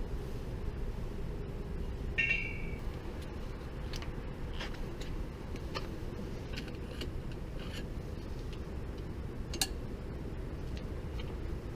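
Scattered light clicks and knocks of tools and parts being handled during cam chain work on a Honda Cub, over a steady low hum, with a brief squeak about two seconds in and a sharper click near the end.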